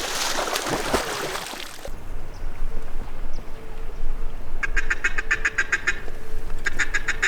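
Duck quacking: two quick runs of short, rapid, evenly spaced quacks, the second near the end, after a brief rushing noise at the start.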